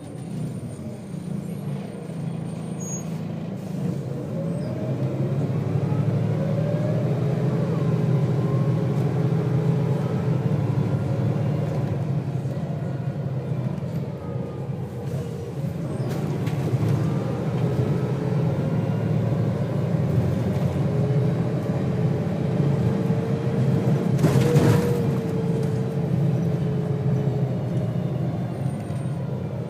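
Volvo B6BLE bus engine pulling hard and easing off, heard from inside the bus, with a whine that rises in pitch through the ZF automatic gearbox several times as the bus accelerates. A brief hiss about 24 seconds in.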